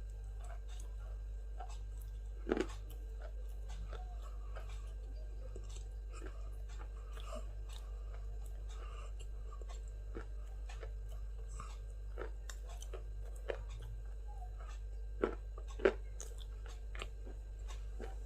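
A person chewing and crunching crisp food close to the microphone, with a run of small crackles and a few louder crunching bites: one about two and a half seconds in and two near the end. A steady low hum runs underneath.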